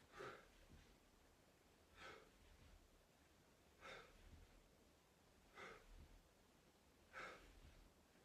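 A person breathing hard from exertion: faint, short, forceful breaths about every second and a half to two seconds, five in all.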